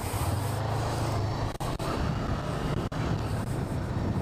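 Motorcycle engine running steadily while riding, with road and wind noise. The sound drops out for an instant twice, about one and a half and three seconds in.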